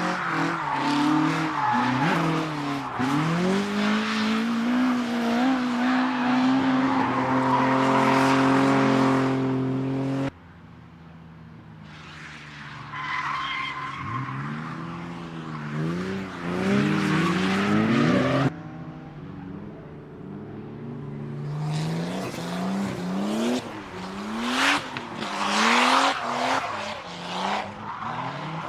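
Retro drift cars on a track, engines revving up and down hard with tyres screeching as they slide. The sound cuts abruptly to another car about 10 seconds in and again about 18 seconds in.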